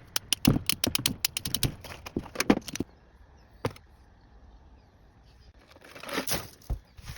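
Scrap metal being handled: a quick clatter of sharp clicks and knocks for about three seconds, one more knock a little later, and a brief rustle near the end.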